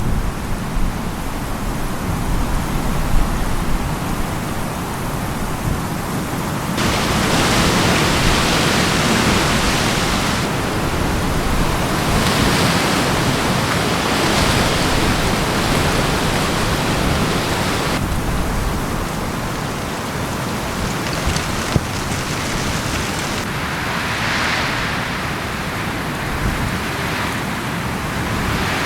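Steady rain falling, a continuous hiss with a low rumble beneath it; the sound changes abruptly several times, getting brighter and fuller about seven seconds in.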